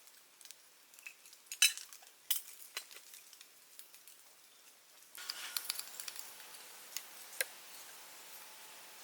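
Scattered light clicks and taps of cooking utensils. About five seconds in, a steady frying sizzle starts suddenly, with a few more clicks over it.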